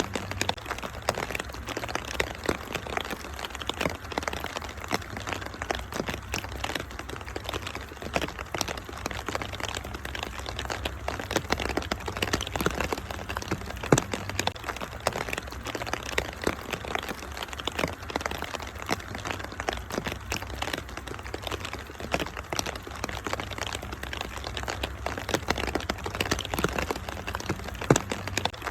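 Wood fire in a fireplace crackling and popping in a dense, steady stream, with one sharp louder pop about halfway through, over a constant low rumble.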